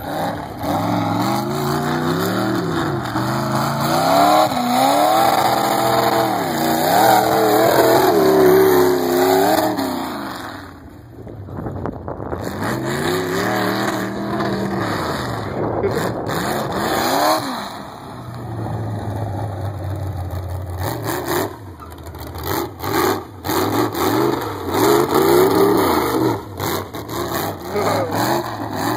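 Demolition derby car's engine through open upright exhaust stacks, revving up and falling back again and again as the car is driven hard on dirt, with a steadier spell about two-thirds of the way through.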